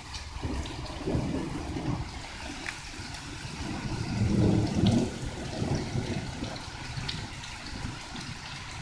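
Low rumbling thunder, swelling about four seconds in and then easing, over steady rain.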